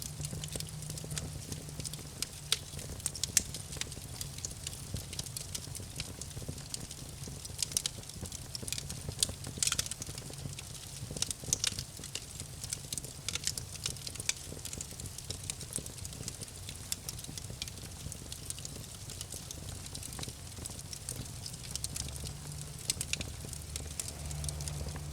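Wood campfire crackling: irregular sharp pops and snaps, some much louder than the rest, over a low steady rumble of the flames.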